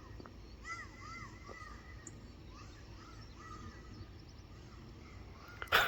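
Birds calling and singing in the background: a run of short, arched whistled notes about a second in, with thinner whistles after. Near the end, a few sharp loud knocks.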